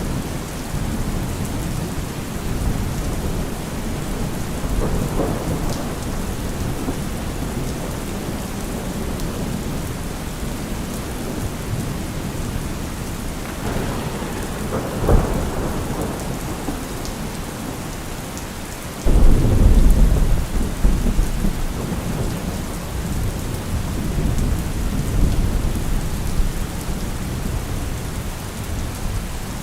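Steady rain falling through a thunderstorm, with low rolling thunder. A short crack comes about halfway through, and a sudden loud thunderclap about two-thirds of the way in rumbles on and fades out.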